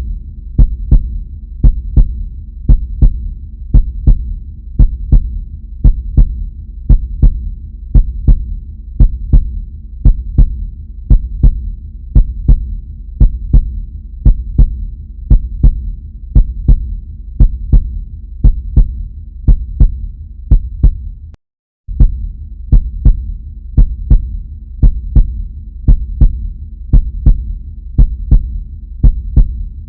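Heartbeat sound effect: a steady double thump (lub-dub) about once a second over a low hum. The sound cuts out for a split second about two-thirds of the way through.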